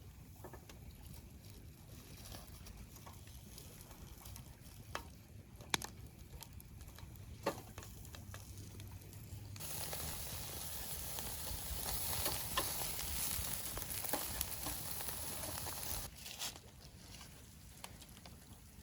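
Fish sizzling on a grill: a steady hiss that starts suddenly about halfway through and cuts off a few seconds before the end. Before it, only a low background with a few sharp clicks and knocks.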